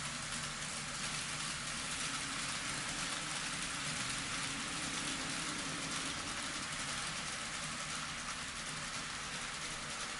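N scale model train running on the layout's track: a steady rolling hiss of small metal wheels on rail joined by a faint motor hum.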